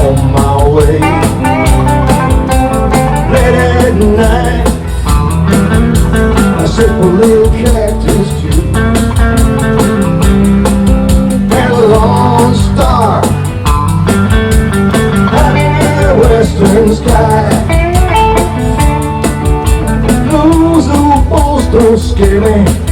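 Live country-rock band playing an instrumental break of a song over a steady beat, with a lead line bending notes about halfway through.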